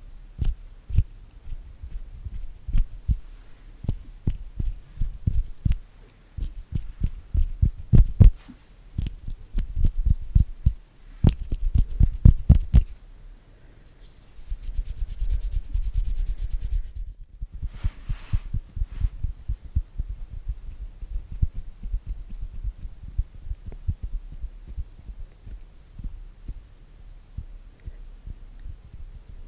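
Close-miked ASMR hand sounds: palms and fingers tapping and patting in quick, uneven strokes that come out as dull thumps. About halfway through, the hands rub together for a few seconds, then the tapping returns, softer and denser.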